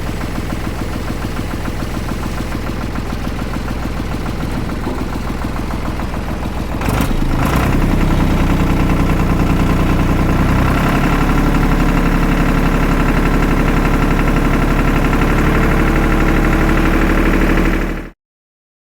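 Same 603 tractor's diesel engine running steadily at a low speed, then stepping up to a faster, louder run about seven seconds in. The sound cuts off abruptly near the end.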